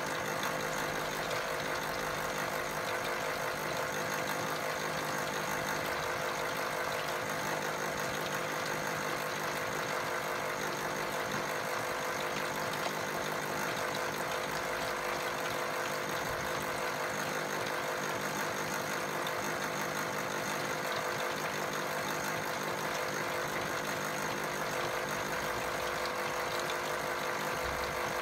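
Small electric motor of a Tide Juniors Home toy washing machine running steadily through a rinse cycle with a lot of water in the drum, an even hum with constant tones throughout.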